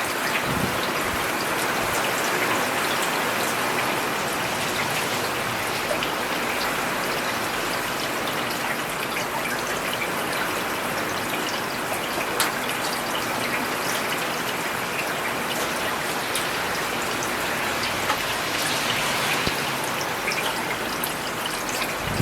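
Steady rain falling on a paved urban road, an even hiss with scattered drops ticking through it and one sharper tick about halfway through.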